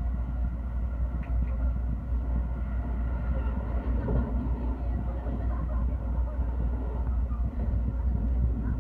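JR commuter train running at speed, heard from inside the carriage: a steady low rumble of wheels on rail and running gear.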